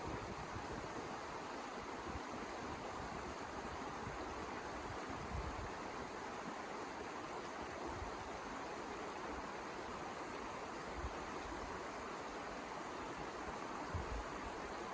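Steady rushing of snowstorm wind, with a few brief low buffets from gusts on the microphone.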